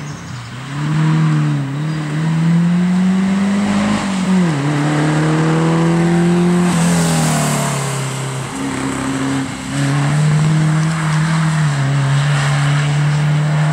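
Rally car engine at high revs under hard acceleration. The note climbs and drops twice in the first few seconds as it changes up through the gears, then holds at a steady high pitch.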